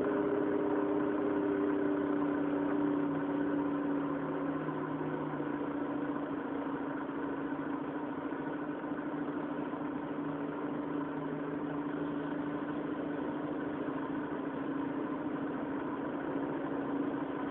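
Mazda RX-8's two-rotor rotary engine idling through a Suruga Speed aftermarket muffler, easing down to a steady idle over the first few seconds.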